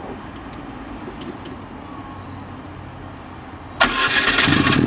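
Turbocharged 16-valve Fiat barchetta engine heard from inside the engine bay, starting: after a few seconds of low background, the starter cranks with a sudden loud burst near the end and the engine catches and settles into a steady idle.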